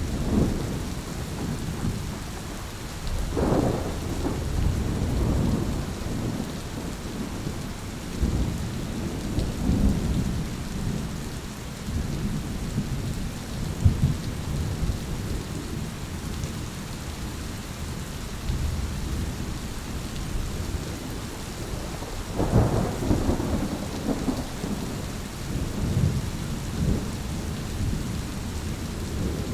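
Thunderstorm: steady rain falling, under continual low rolling thunder, with louder peals about three seconds in and again past the twenty-second mark.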